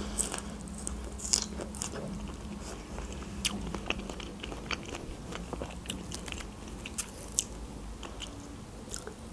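A person chewing a whole fresh strawberry dipped in whipped cream: soft, wet chewing with many small, scattered clicks and smacks of the mouth.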